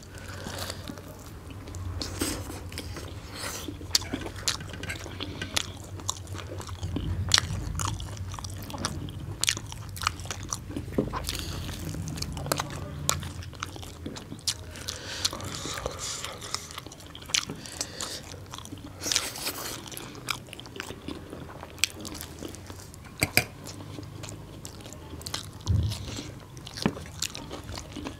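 Close-miked mukbang eating sounds: two people chewing and smacking mouthfuls of bhature fried bread and chickpea curry, with frequent irregular sharp mouth clicks.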